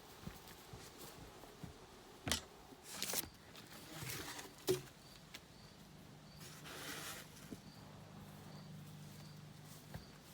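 A few sharp knocks and rustling noises of materials being handled during work, over a low steady hum that begins a few seconds in. Faint high chirps repeat about twice a second in the second half.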